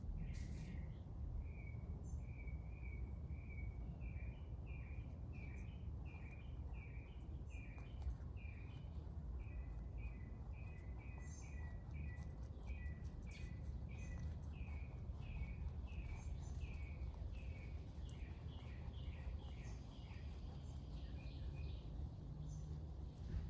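A bird calling a short chirp over and over, about two a second, over a steady low outdoor background hum.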